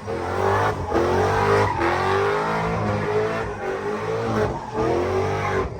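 A vehicle engine revving hard in repeated rising sweeps, each about a second long and cut off sharply before the next, over a steady low rumble.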